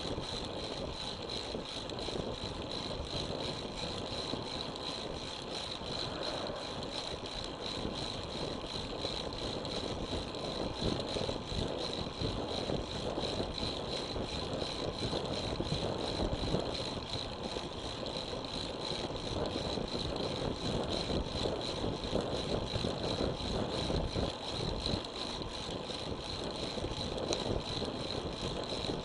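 Steady wind rush on the microphone and road-bike tyre noise on the road surface while riding, at an even level, with a thin steady high whine running through it.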